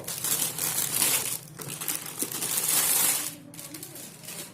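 Packaging crinkling and rustling as it is handled and opened, in two long stretches that stop a little after three seconds in.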